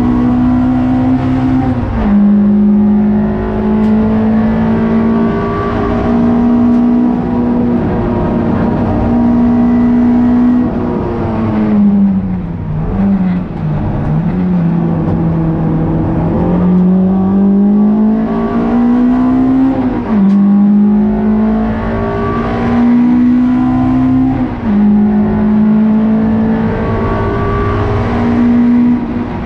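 Toyota Sprinter Trueno race car's engine under hard acceleration, its pitch climbing through each gear and dropping sharply at upshifts. About midway the revs fall and jump in a few quick blips as it downshifts for a corner, then it pulls up through the gears again.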